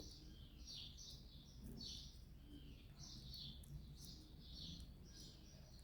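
Faint bird chirping, short falling chirps repeated about twice a second, over a faint low hum.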